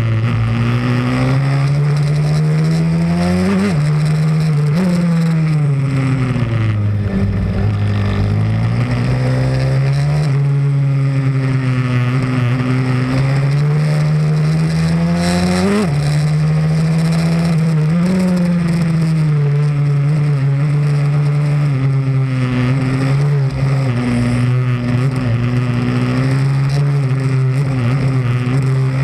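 Pit bike's single-cylinder engine running hard around a track. The pitch climbs steadily as it accelerates, then drops sharply at gear changes or braking, about a third of the way in and again past the middle, over a steady rushing noise.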